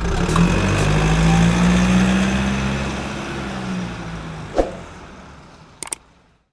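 Truck engine running with a low, steady hum that fades away over the last couple of seconds, with a sharp click about four and a half seconds in.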